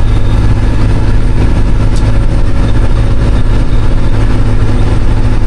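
Western Star heavy truck's diesel engine running at a steady speed, a constant loud low drone with no change in pitch.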